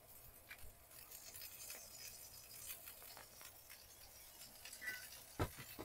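Turkey burgers sizzling faintly in olive oil in a cast iron skillet, a light crackle of fat, with one sharp knock about five seconds in.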